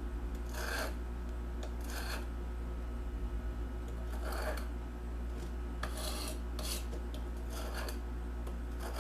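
Steel plane iron being sharpened on an oiled sharpening stone: the blade scraping over the stone in about seven separate strokes.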